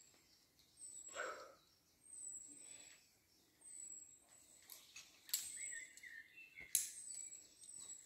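Faint bird call: a short, thin, high note, falling slightly, repeated about once a second. A few sharp clicks stand out about five and seven seconds in.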